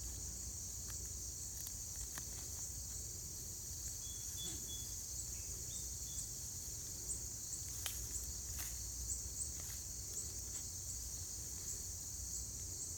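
Insect chorus: a steady high-pitched buzz with short chirps repeating about twice a second, with a few faint scrapes and clicks of hands digging in the soil.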